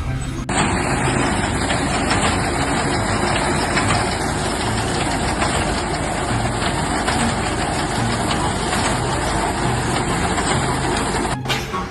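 A heavy engine running steadily with a low rumble, starting abruptly about half a second in and cutting off just before the end.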